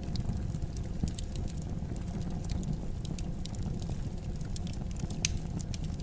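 Fire burning in a fireplace: a steady low rumble with scattered sharp crackles and pops, one louder pop about five seconds in.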